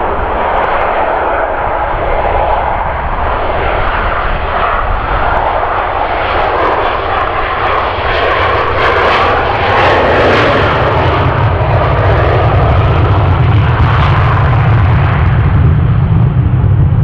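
Boeing 737-200's Pratt & Whitney JT8D turbofan engines at full takeoff power: a loud continuous jet roar with a crackle that peaks about halfway through, then gives way to a deeper rumble.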